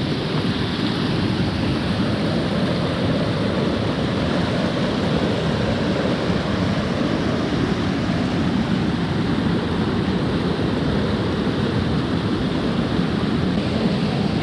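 Steady rush of flowing water, a river or waterfall, as an even noise with no breaks.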